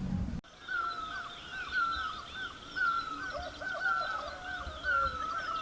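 Birds chirping, many short calls repeating and overlapping. They start abruptly about half a second in.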